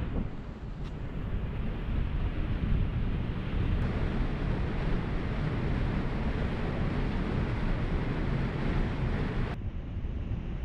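Steady rush of a waterfall, a dense noise heaviest in the low rumble. The upper hiss drops away near the end.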